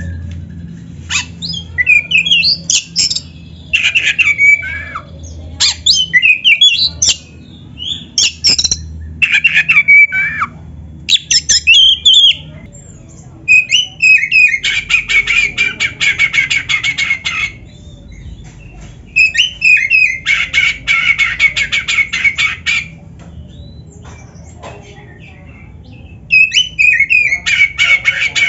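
Oriental magpie-robin (black-breasted kacer) singing loud, varied whistled phrases in bursts with short pauses between them. Twice in the middle it sings a long, rapid canary-like trill.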